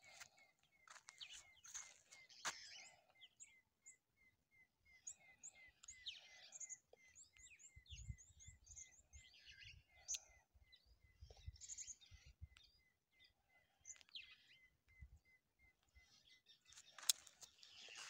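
Faint outdoor birdsong: one bird repeats a short, slightly falling note about three times a second, while other birds chirp higher and more loosely. A few footsteps scuff on sand near the end.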